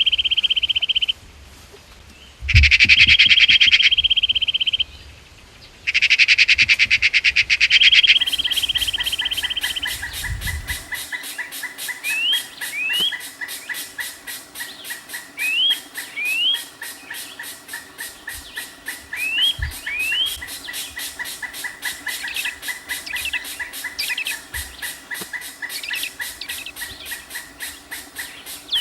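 Birds calling: loud buzzy trilling for the first few seconds, broken twice by abrupt gaps, then pairs of short rising chirps every few seconds over a fast, steady ticking.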